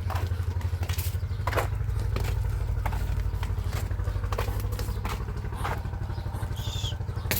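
A small engine running steadily, a low rhythmic thudding of about ten beats a second, with a few brief clatters over it.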